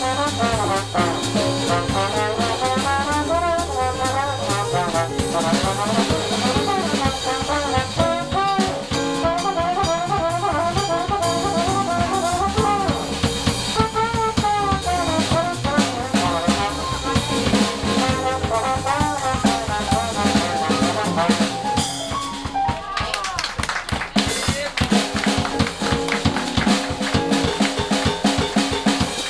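Jazz band playing: trombone and trumpet lines over a drum kit. About three-quarters of the way through, the horns drop out and the drums take over.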